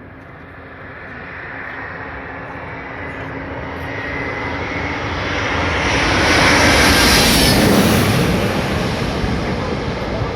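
Jet airliner passing low overhead on landing approach: its engine noise swells to a loud peak about seven seconds in and then fades, with a whine that slides down in pitch as it goes by.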